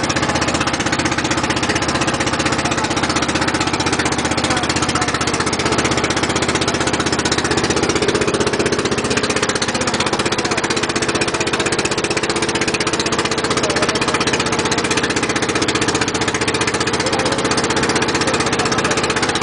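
A boat's engine running steadily at a constant speed, a loud, rapid, even chugging.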